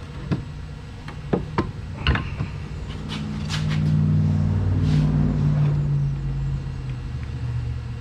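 A few sharp clicks, then an engine or motor running with a low, steady hum that swells and then eases off.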